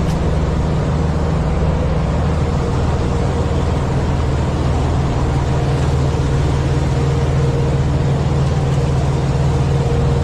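Semi-truck's diesel engine running with a steady, even low hum.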